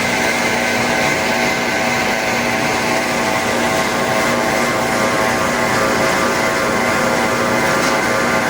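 Plastic-processing factory machinery running steadily and loudly: a dense mechanical hum with several steady tones over a haze of noise.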